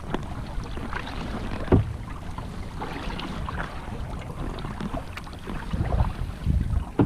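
Kayak paddle splashing and water sloshing against the hull in choppy water, with wind rumbling on the microphone; a sharper splash about two seconds in.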